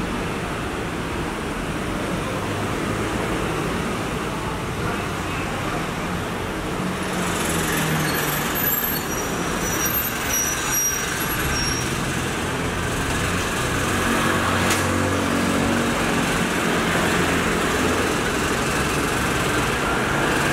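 Garbage truck's engine running amid street traffic noise, with a few brief high-pitched squeaks in the middle.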